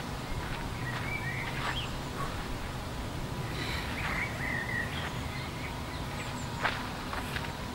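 Outdoor ambience: a steady low background noise with a songbird calling in short whistled chirps a few times.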